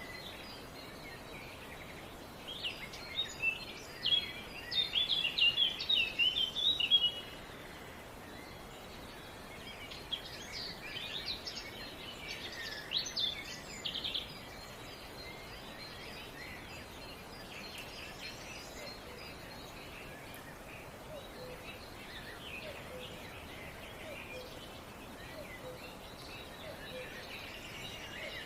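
Songbirds singing in quick chirping phrases, loudest in a burst about three to seven seconds in and another about ten to fourteen seconds in, with fainter calls later, over a steady background hiss.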